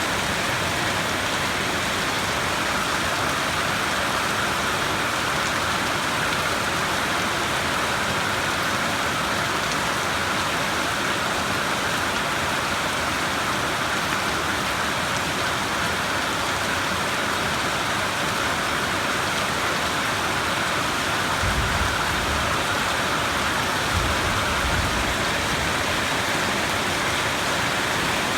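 Steady heavy rain falling. Low rumbles of distant thunder swell briefly twice near the end.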